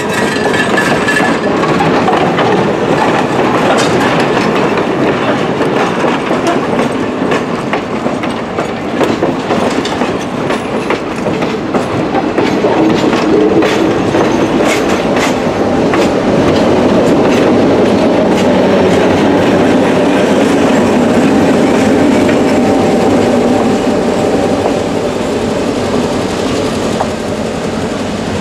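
Railway passenger cars rolling past at close range: a steady rumble of steel wheels on rail, with many sharp clicks of clickety-clack as the wheels cross rail joints.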